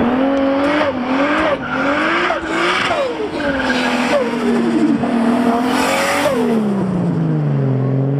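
Turbocharged Nissan 180SX engine revving up and dropping back about six times, with a rushing hiss at the top of each rev. Near the end the revs fall away and settle low.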